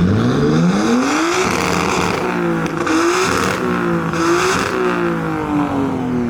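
A car engine revving: its pitch climbs over the first second or so, holds high with small rises and dips, then falls away over the last second or two.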